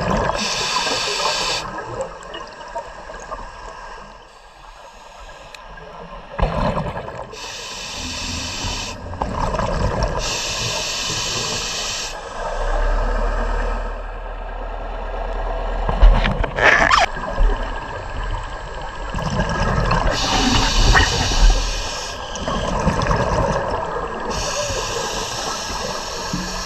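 Scuba diver breathing through a regulator underwater: loud hissing breaths and bubbling that come and go every few seconds. A low rumble sets in about halfway through, with a sharp knock in the middle of it.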